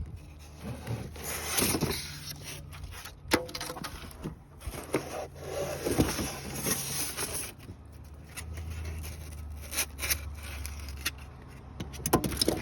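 Irregular knocks, clicks and scraping as car parts are handled and moved about, over a steady low hum.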